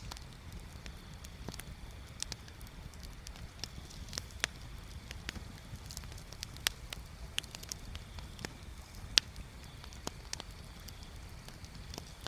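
Wood bonfire crackling: irregular sharp pops and snaps, a couple of them louder than the rest, over a low steady rumble.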